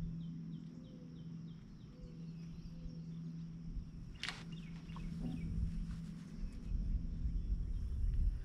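A bird calling in quick runs of short chirps near the start and again about four seconds in, over a faint steady low hum and light outdoor rumble; a single sharp click sounds about four seconds in.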